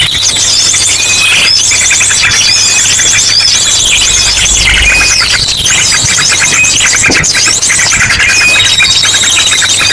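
Bird-lure recording of many small birds calling at once, with ashy drongo calls mixed in: a loud, unbroken din of overlapping chirps, rapid repeated trills and a held high whistle.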